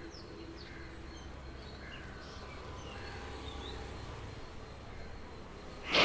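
Faint birds chirping now and then over quiet open-air background noise. A held low chord fades away in the first second, and a loud sudden swell of sound breaks in right at the end.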